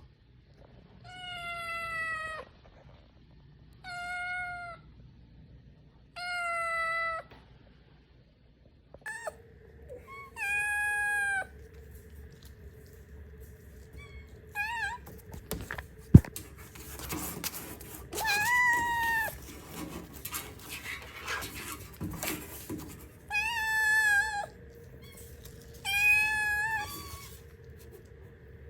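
A cat meowing again and again: about eight drawn-out meows, each up to about a second and a half long, with pauses between them. There is a single sharp knock about halfway through.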